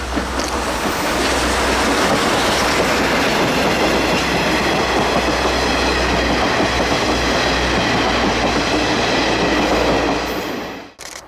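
Steam-hauled SL Ginga train (C58 239 with KiHa 141 series cars) passing close by: a loud, steady rumble and clatter of wheels on rails. It builds over the first couple of seconds and drops away abruptly near the end.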